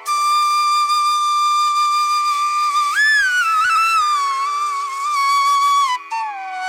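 Background music: a slow solo flute melody with long held notes and pitch slides over a steady drone.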